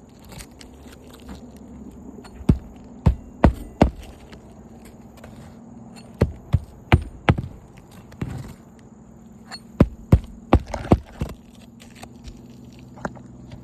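Roofing nails being driven into a replacement asphalt shingle: three quick runs of sharp strikes, four or five in each, about two or three a second, over a steady low hum.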